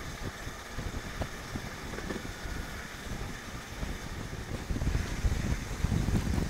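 Wind rushing and buffeting on the microphone held out of a moving express train's open door, over the running rumble of its LHB coaches on the track. It grows louder about five seconds in.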